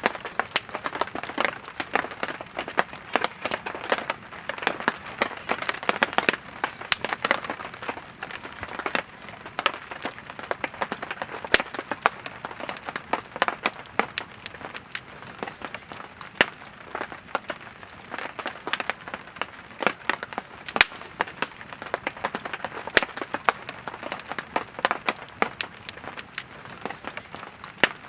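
Campfire of split firewood burning, with a steady hiss and frequent irregular crackles and pops.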